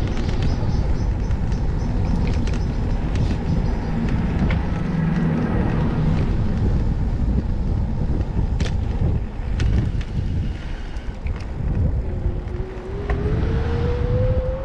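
Wind rumble on the microphone and road noise from a bicycle riding through city streets, with traffic. A rising whine starts about twelve seconds in.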